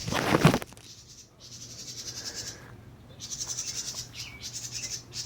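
A brief loud rustle at the very start, then a high, rapid pulsing trill from small wildlife that comes and goes in stretches of about two seconds.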